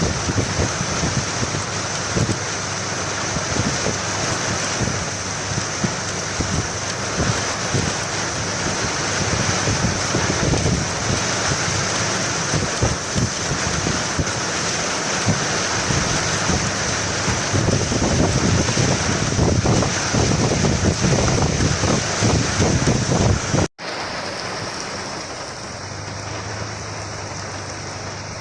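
Heavy rain pouring down, a dense patter of drops. About 24 seconds in the sound cuts out for an instant, and the rain then sounds quieter.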